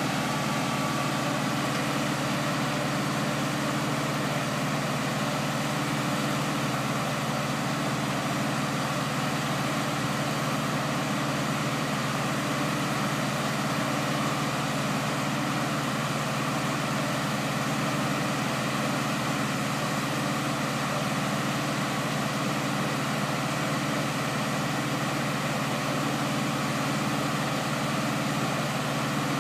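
Boat gantry's engine running steadily, an even, unchanging hum.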